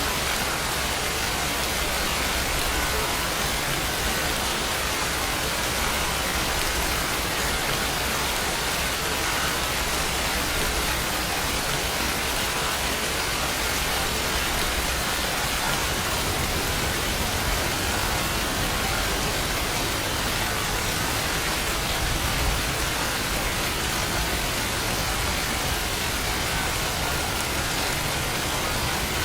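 Steady, even rain with a constant hiss.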